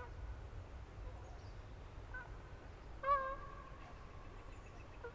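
Waterfowl calling at a lake: a few faint calls, then one loud call about three seconds in that is held and fades out slowly, over a low steady wind rumble.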